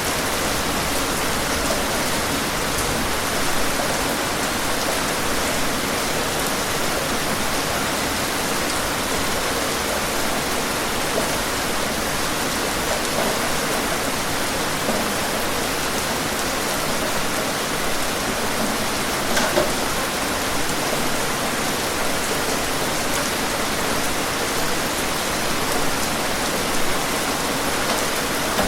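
Steady rain, an even hiss with a few brief louder drop sounds.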